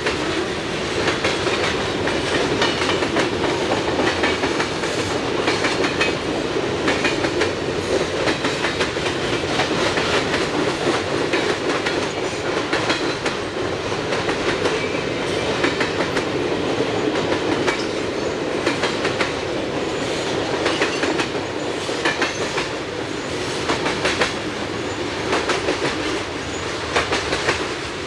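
Freight train cars rolling past, their wheels clicking over the rail joints in a steady clatter.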